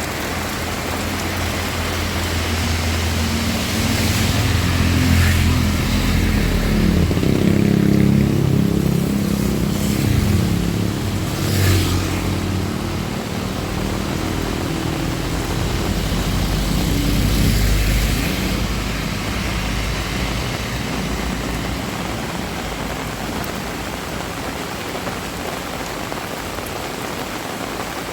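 Heavy rain falling steadily, with motor vehicles passing on the road: engine noise swells about four seconds in, peaks twice, and fades away after about eighteen seconds.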